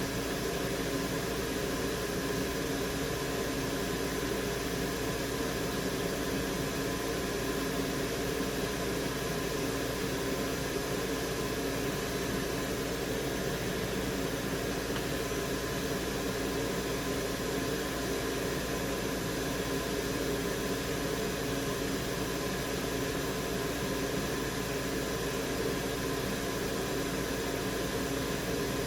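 Steady whir of an electric fan or blower running on a repair bench, an even hiss with a low hum that stays unchanged throughout.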